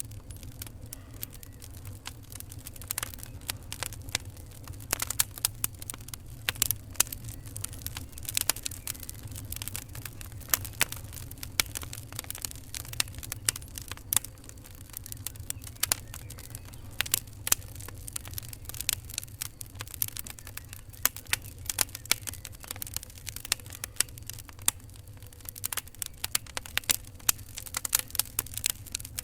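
Fire crackling: dense, irregular sharp pops and snaps over a steady low rumble.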